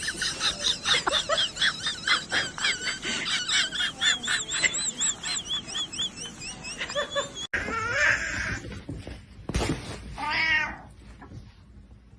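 Rapid run of high-pitched chirps, several a second, for about seven seconds. Then, after an abrupt cut, a domestic cat meows once, about ten seconds in.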